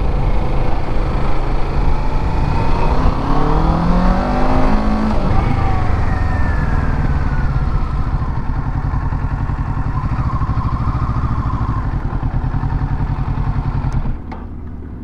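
Motorcycle engine, the Kawasaki Ninja 650's parallel twin, revving up with a rising pitch a few seconds in, then running steadily. It quiets suddenly near the end.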